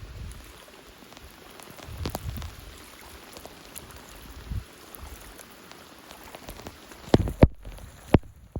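Rain falling, a steady hiss with individual drops pattering. Three sharper, louder drop hits come close together near the end.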